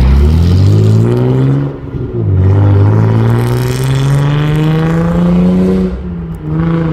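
Car accelerating hard away, its engine revving up and shifting up twice, about two seconds in and about six seconds in, then running on at steady revs.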